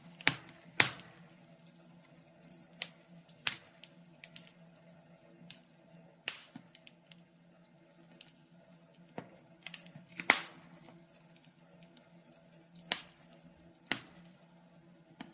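Wood fire in a fireplace crackling, with sharp pops at irregular intervals; the loudest pop comes about ten seconds in.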